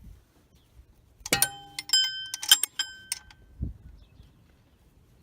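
Steel wrenches clinking and ringing against each other and the alternator bracket while a seized alternator mounting bolt is worked loose. A cluster of sharp metallic strikes comes over about two seconds, each leaving a short bell-like ring, followed by a single dull thump.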